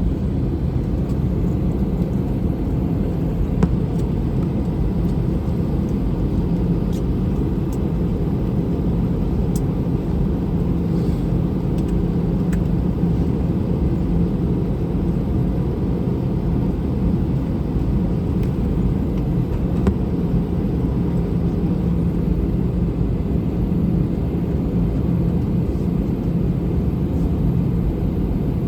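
Airbus A321 jet engines running, a steady low rumble with a constant hum and no rise or fall in level.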